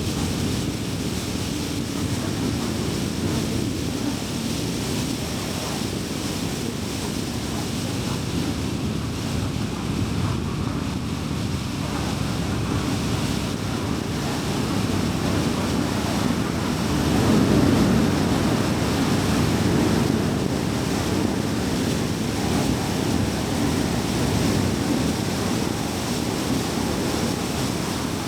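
Steady road and tyre noise with engine hum, heard from inside a car cruising on a highway. It swells louder for a few seconds about two-thirds of the way through.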